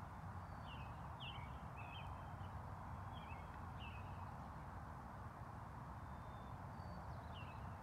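Short, high bird chirps, a scattering of them over the first few seconds and a couple more near the end, over steady outdoor background noise.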